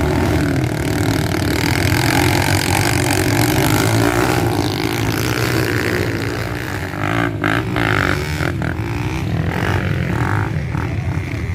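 Off-road motorcycle engines running and revving.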